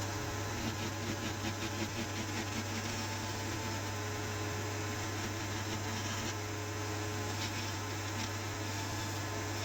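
A steady low electrical or mechanical hum, with light rapid scratching or clicking over the first two or three seconds.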